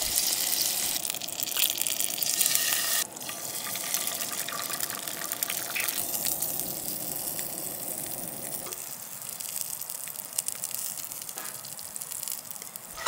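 Eggs and English muffins sizzling in a hot cast-iron skillet on a camp stove: a steady hiss with fine crackling. It is loudest for the first three seconds, drops suddenly, and grows softer again after about nine seconds.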